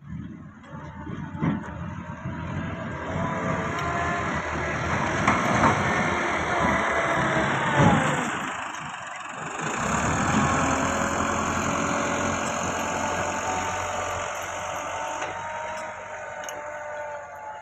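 Massey Ferguson 385 tractor's diesel engine running as it works, its note rising and falling, with a few knocks in the first seconds. It drops off briefly about halfway through, then picks up again.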